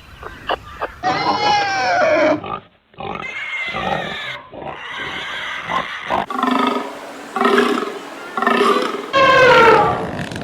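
A run of different animal calls cut one after another. One pitched call falls in pitch about a second in, and the sound changes abruptly several times as one animal gives way to the next.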